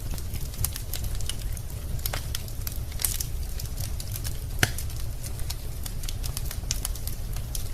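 Wood fire burning in a fireplace: a steady low rumble of flames with irregular sharp crackles and pops from the logs, one louder pop about halfway through.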